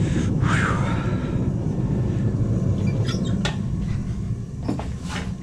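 A blacksmith's forge running with a steady low rumble, with a few light metallic clinks and clanks of tools, about half a second in, around three seconds and near the end.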